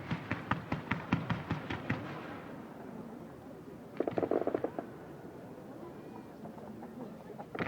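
Fireworks going off: a rapid run of sharp bangs, several a second, dying away about two seconds in, then a short dense burst of crackling around four seconds in.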